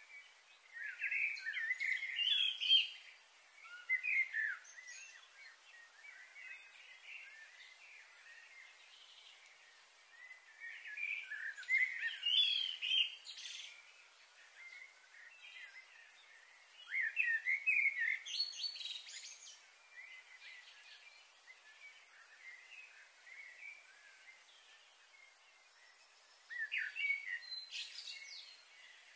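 Small birds chirping in four spells of quick, high calls spread through the stretch, over a faint steady high hiss.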